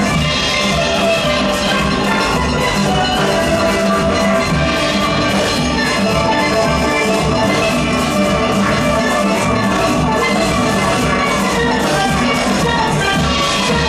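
Steel orchestra playing a calypso/soca arrangement: many steel pans ringing out melody and chords over a steady drum and percussion beat.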